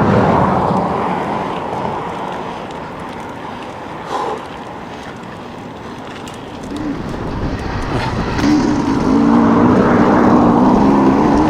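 Rushing wind and tyre noise from a Bafang-powered electric mountain bike being ridden along a trail. A wavering droning hum joins about eight seconds in and grows louder.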